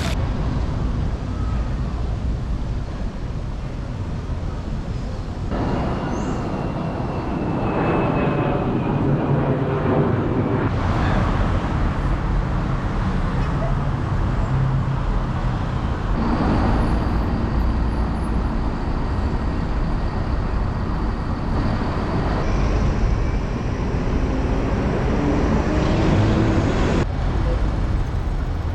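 City street ambience: road traffic running steadily, with indistinct voices. The background changes abruptly several times where separate recordings are cut together.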